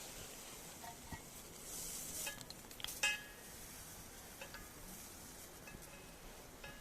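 Hard clams faintly sizzling on a grill over a campfire, with a few light clinks, the sharpest about three seconds in with a short ring.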